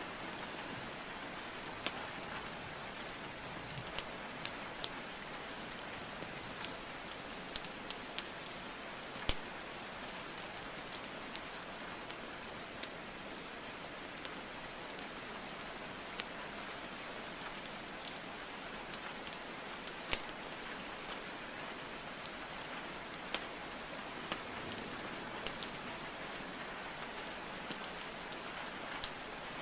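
Steady hiss of falling rain, with irregular sharp crackles and pops from burning wood logs in a fireplace.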